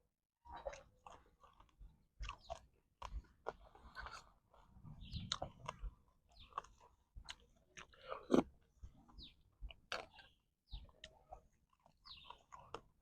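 Close chewing and crunching of a person eating boiled frog: irregular bites and chews, with one louder crunch a little past halfway.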